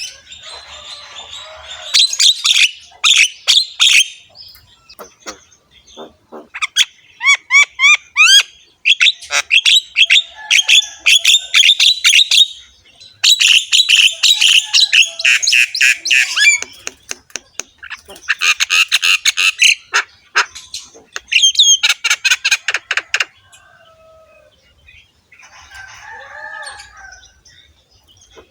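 Javan myna (jalak kebo) singing a long, harsh, chattering song: fast runs of rasping notes, rapid trills and short rising whistles in phrases with brief pauses. Near the end come a few quieter, lower calls.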